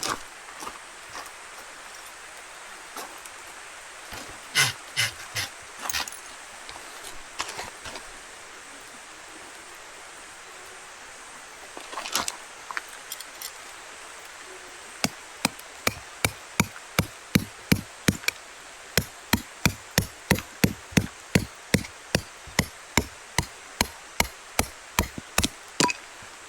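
Sharp knocking over a steady hiss: a few scattered knocks at first, then from about halfway a fast, even run of strikes, two to three a second, like repeated hammer blows.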